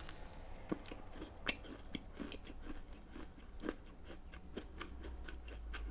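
A person chewing a bite of a large chocolate chip cookie close to the microphone: faint, irregular small crunches and mouth clicks.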